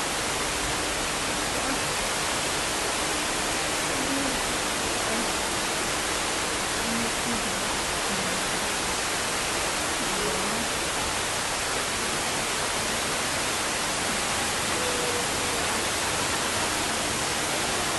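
Waterfall rushing steadily: a loud, even roar of falling water with no change in level.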